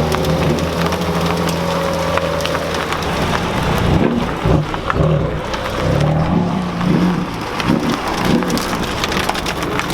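Car engine idling steadily, then rumbling unevenly with short rises and falls in pitch from about four seconds in.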